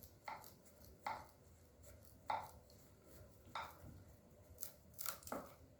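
Dull scissors snipping through rope: a series of short, crisp cuts about a second apart, coming quicker near the end.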